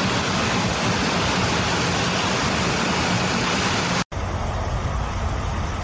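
Heavy rain falling, a dense steady hiss. About four seconds in it cuts off abruptly and gives way to a lower, rumbling noise of rain and water.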